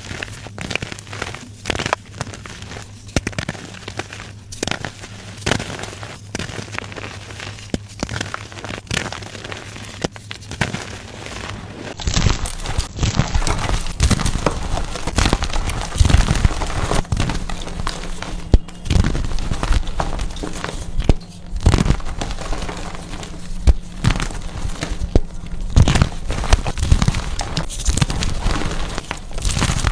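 Blocks of gym chalk being crushed, giving a run of soft, irregular crunches and crumbling crackles. About twelve seconds in the sound jumps to a louder, fuller crunching.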